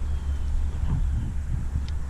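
Wind buffeting the microphone outdoors: a steady low rumble, with faint scattered rustles over it.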